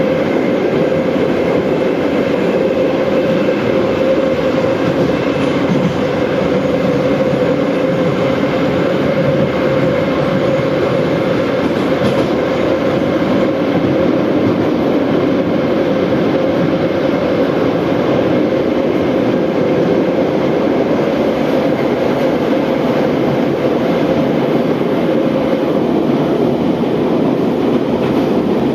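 Moscow Metro 81-717/714 subway train running at speed between stations, heard from inside the car: a steady, loud running noise of wheels on rail with a constant hum.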